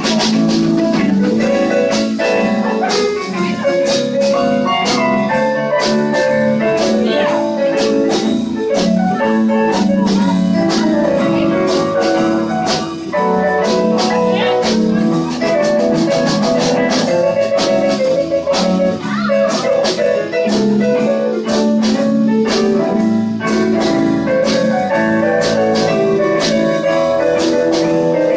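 A live band playing an instrumental break in a slow rock 'n' roll ballad, with a drum kit keeping a steady beat under sustained chords and a melody line.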